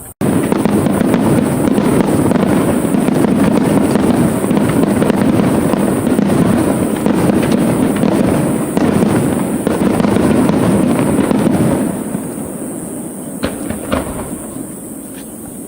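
Fireworks display: a dense, continuous barrage of aerial shell bursts with crackle that starts suddenly and goes on for about twelve seconds, then thins out to a few separate sharp bangs near the end.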